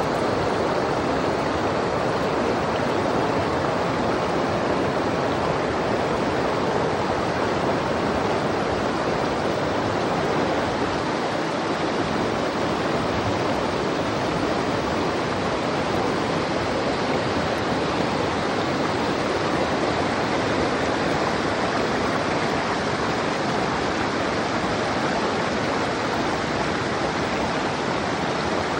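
Fast mountain river rushing over rocks: a steady, even roar of white water.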